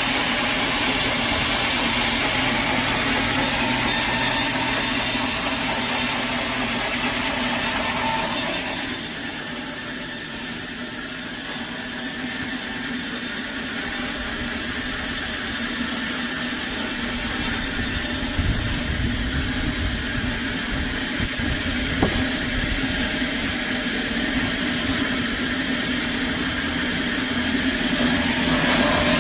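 Sawmill saw cutting a log over a steady machine hum. A bright, high hiss comes in a few seconds in and stops about two-thirds of the way through.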